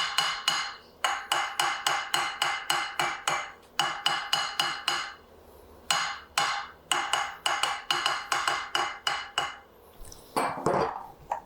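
Rapid, ringing metallic taps in runs of several at about four or five a second, with short pauses between the runs; a brief scraping sound comes near the end.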